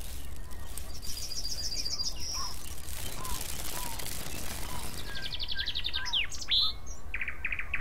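Songbirds singing: several short, fast trills and a few quick sweeping whistled notes, one after another, over a steady low rumble.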